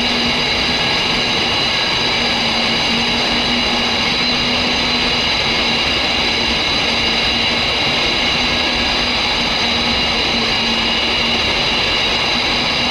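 Large natural-gas-fired steam boiler firing on four burners: a steady roar of burner and combustion air, with a constant low hum and several steady high-pitched whining tones.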